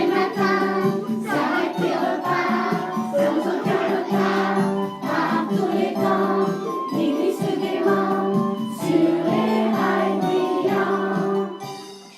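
A children's song about a little train, sung by a group of young voices over instrumental accompaniment. It fades out near the end.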